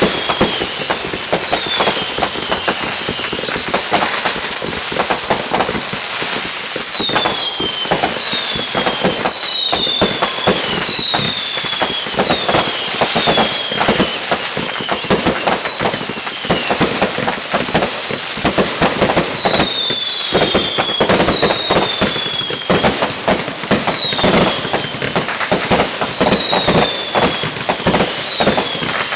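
Fireworks going off in a dense, continuous barrage: rapid crackling and popping throughout, overlaid by many short whistles that slide down in pitch, often several overlapping.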